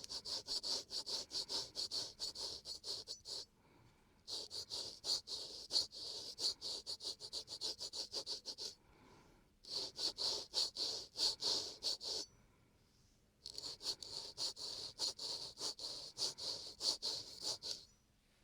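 Razor scraping across the skin of a man's dampened face in quick, short strokes, about three or four a second. The strokes come in four runs of a few seconds each, with brief pauses between.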